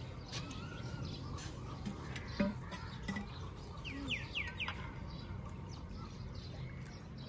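Birds chirping over an outdoor village background, with a quick run of four falling chirps about four seconds in. Scattered light knocks, the loudest about two and a half seconds in.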